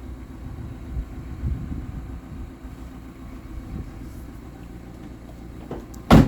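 Fiat Doblo 1.6 JTD diesel van running with a steady low rumble, then a loud single slam near the end, like a door shutting, after which the sound drops away sharply.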